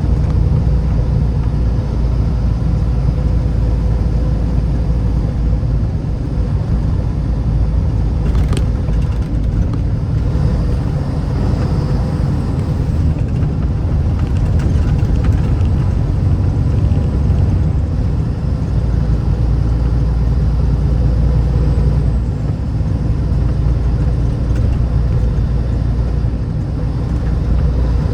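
Steady low rumble of a vehicle being driven: road and engine noise with a faint steady hum above it.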